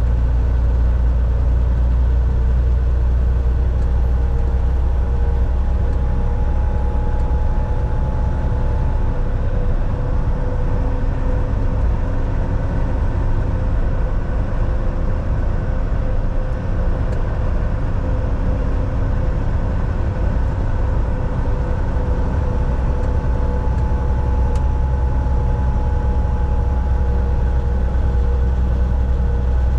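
Volvo VNL 760 semi truck cruising, heard from inside the cab: a steady low engine and road drone with a faint steady whine over it.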